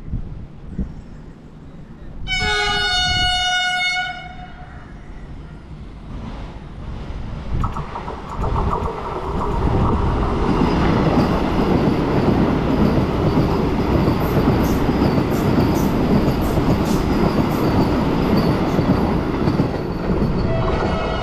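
Vande Bharat Express electric trainset sounds its multi-tone horn for about two seconds, then approaches and runs through the station without stopping. It passes as a loud, steady rush of wheels on rails with rapid clicking, and sounds its horn again near the end.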